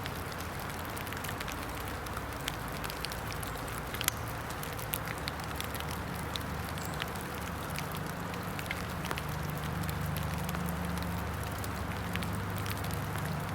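Steady rain hiss in wet woods with scattered sharp ticks of drips or crackle, over a low steady hum that grows a little louder about halfway through.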